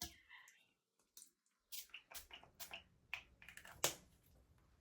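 A quick series of small plastic clicks and taps from skincare bottles and caps being handled, the sharpest one near the end.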